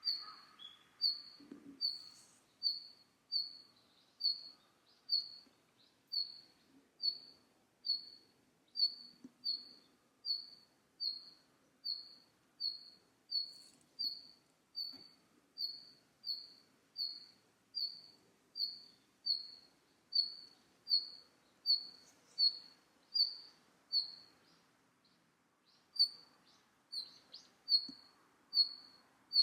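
Red-flanked bluetail giving its short, high call note over and over at an even pace, about two calls a second, with a brief pause near the end.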